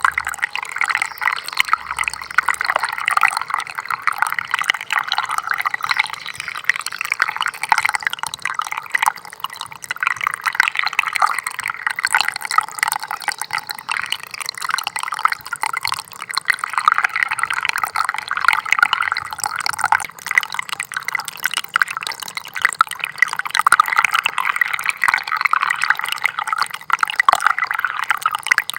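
Small stream of water trickling steadily, a busy, even patter of small splashes with no deep rushing sound.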